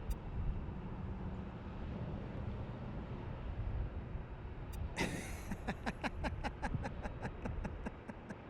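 Steady low rumble of passing vehicle traffic. About five seconds in, a louder vehicle sound starts suddenly and breaks into a rapid run of sharp pulses, about five a second, that fade over the next three seconds.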